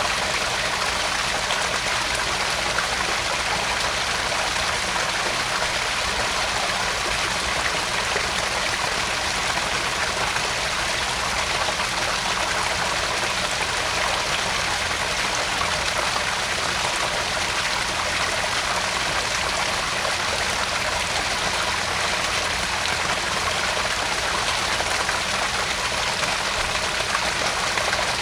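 Small garden pond waterfall: water pouring and trickling steadily into the pond, an even splashing rush with no change.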